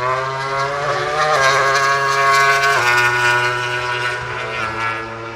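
MotoGP racing motorcycle's 1000 cc four-cylinder engine passing at top speed: a high, rising engine note that peaks, drops sharply in pitch as the bike goes by just under three seconds in, then fades away.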